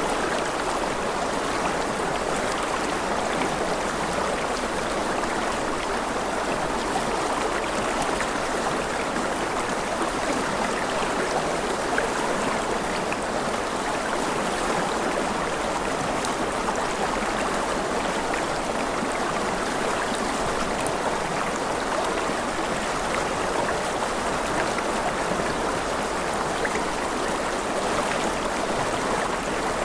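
Steady rushing water of a stream, running evenly without let-up.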